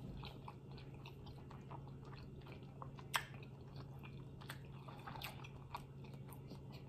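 Faint close-up chewing of a dumpling: wet mouth sounds with scattered small clicks, and one sharper click about three seconds in.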